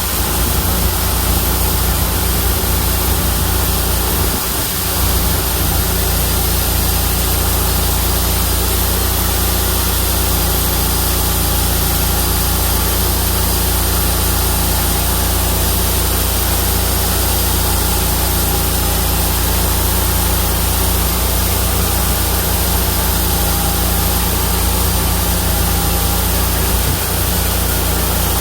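Homemade bandsaw mill driven by a 31 hp engine, running steadily with a deep hum and a high hiss, with a brief dip in level about four seconds in.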